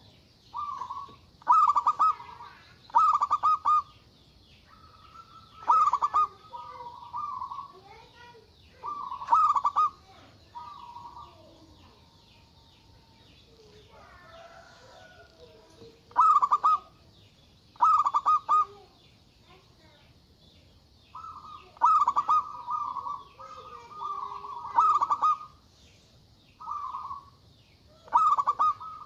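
Zebra dove (perkutut) cooing over and over in short phrases of rapid pulses, a bit over a dozen in all, some coming in quick pairs, with a faint, steady high chirring underneath.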